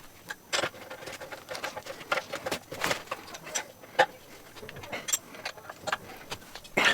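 Irregular light clicks and taps of hand work on the lathe and its pallet, with a few sharper knocks roughly once a second.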